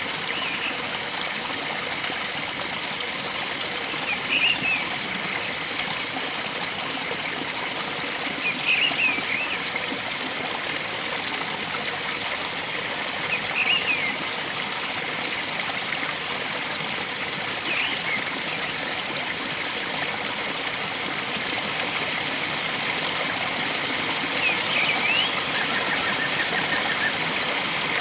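Steady rush of flowing stream water, with a bird's short chirping call repeating about every four to five seconds over it.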